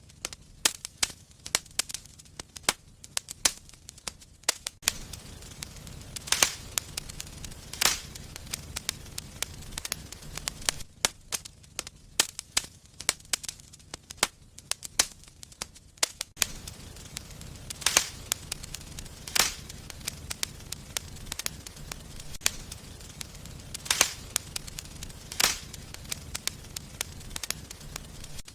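Wood fire in a fireplace crackling, with irregular sharp pops and snaps, a handful of them much louder than the rest.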